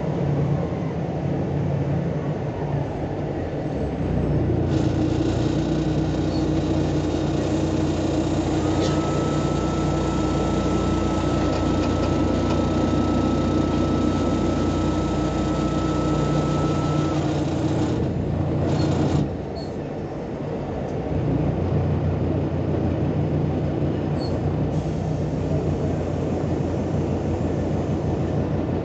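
Volksbus 18-280 OT LE city bus diesel engine running under way. It pulls harder from about four seconds in, with a steady high whine through the middle. The engine note drops off abruptly about two-thirds through, then builds again.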